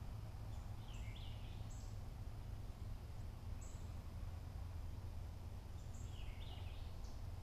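Birds calling: a short call that zigzags up and down in pitch about a second in and again about six seconds in, with brief high chirps scattered between, over a steady low rumble.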